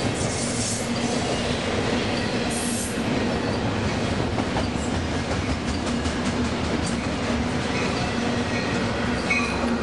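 Trains passing through a station: a freight train's cars roll by with a steady rumble and a low hum, with light clicks of wheels over rail joints.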